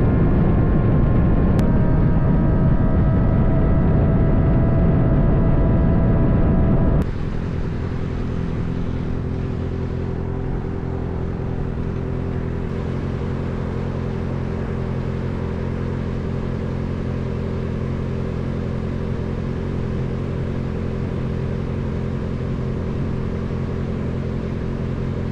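Motorcycle running at steady speed, with engine drone and wind noise. The sound changes abruptly about a second and a half in and gets quieter about seven seconds in.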